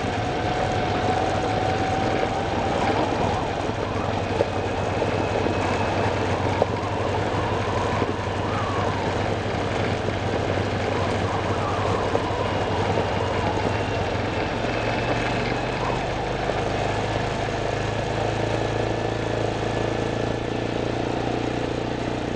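Vehicle engine running steadily on a ride, with a rough rumble over a low hum; the engine note shifts lower about two-thirds of the way through.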